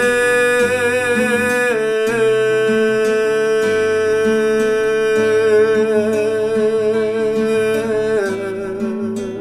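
Folk song music: acoustic guitar playing under a long held melody note with a slow waver, which steps down in pitch about two seconds in and again near the end.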